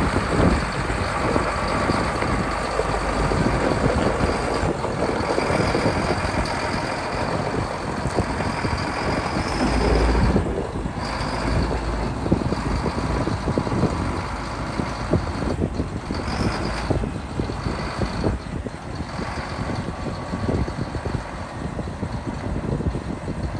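Diesel engine of a 2011 Massey Ferguson 8680 Dyna-VT tractor running, with a steady high-pitched whine over the engine noise.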